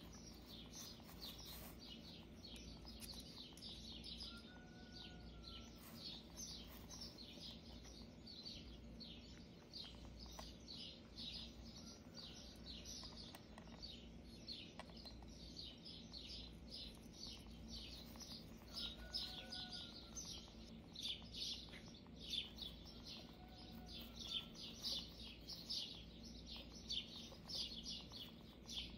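Faint, continuous bird chirping and twittering, with an occasional short whistled note that rises and falls.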